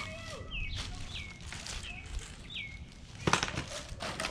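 A songbird calling a short, high, down-slurred note over and over, about once every half second to second. Near the end come a few sharp knocks and rustles of parts and packaging being handled.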